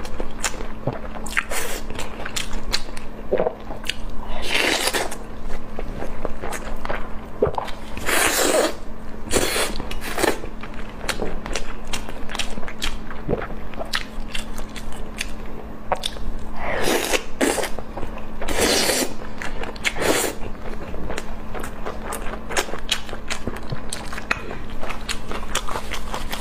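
Close-miked eating sounds: repeated biting and chewing with sharp wet mouth clicks and several longer crunchy bites, over a faint steady hum.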